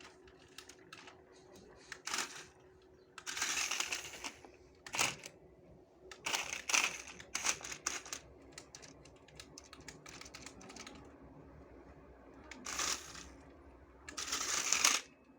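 Toy RC monster truck driven in short spurts: irregular clattering, rattling bursts of about a second each, with scattered clicks in between.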